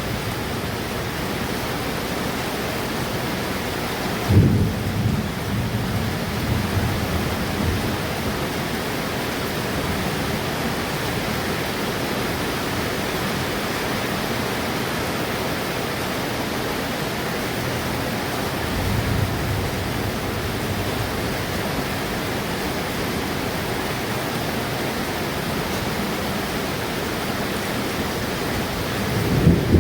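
Steady rain falling during a thunderstorm, with thunder: a sudden loud clap about four seconds in that rumbles on for a few seconds, a softer rumble past the middle, and another loud clap near the end.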